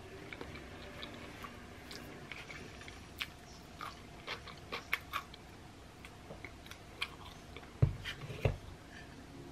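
Close-up eating sounds: pizza and crisp pickles being bitten and chewed, with many small crunches and clicks. Two dull thumps come a little before the end.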